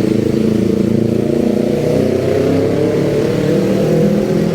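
Motor vehicle engine running steadily close by in street traffic, its pitch drifting slightly.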